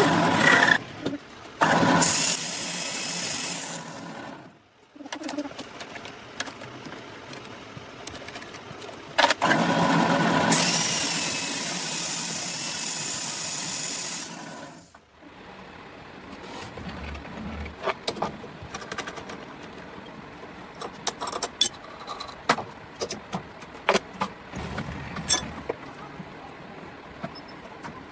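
Metalworking on a timing gear: stretches of loud hissing power-tool noise that stop and start several times, then quieter scattered metallic clicks and knocks.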